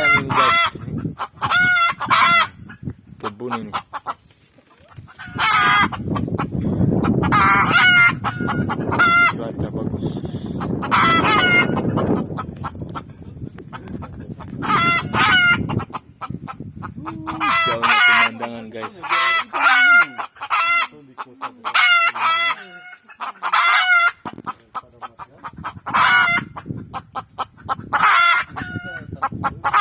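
Junglefowl calling over and over, a steady run of loud clucks and crows with only short gaps between them. A low rumbling noise sits underneath for several seconds in the middle.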